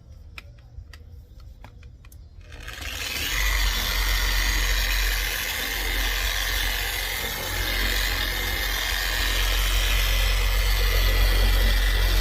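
Bauer dual action polisher switched on about two and a half seconds in and running steadily, buffing a plastic headlight lens with compound. A few sharp clicks come before it starts.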